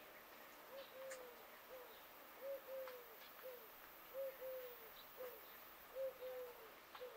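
A bird's low calls in a three-note phrase, short, long, short, repeated four times, with faint scattered clicks.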